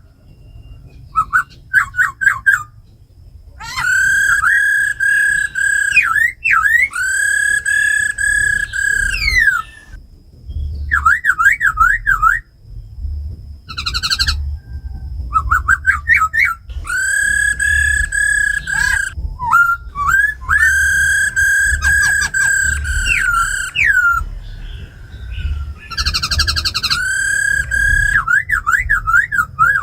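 Laughingthrush song: loud, clear whistled notes, each held steady for a second or two, alternating with quick trills that swing up and down in pitch and short runs of rapid notes.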